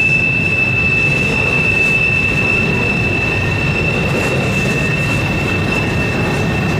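Intermodal freight cars rolling past on a curve, their wheel flanges squealing in one steady high tone over the continuous rumble of the wheels on the rails.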